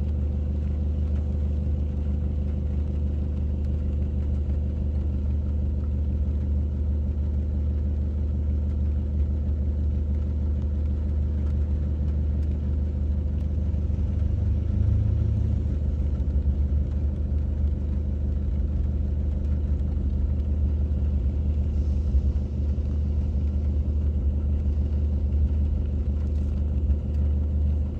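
Car engine idling, a steady low hum heard from inside the cabin, with a brief low swell about halfway through.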